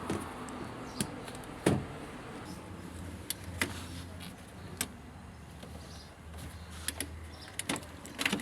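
Scattered sharp clicks and knocks of hands and tools working on a washing machine being diagnosed, with a low steady hum for a few seconds in the middle.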